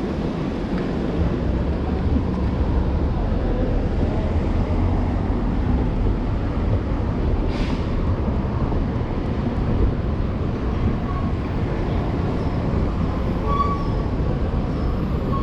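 Steady low rumble of city street traffic, with a short hiss about seven and a half seconds in and a few brief high tones near the end.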